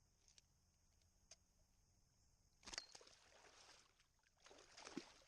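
Two short bursts of water splashing beside a kayak, one about three seconds in and one near the end, each lasting about a second, with a few faint clicks before them. Underneath is a quiet background with a faint steady high hiss.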